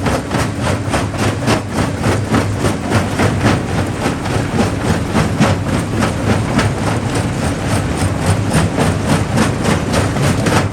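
Jaw rock crusher running, a steady low drone with a rapid, even knocking of about five strokes a second.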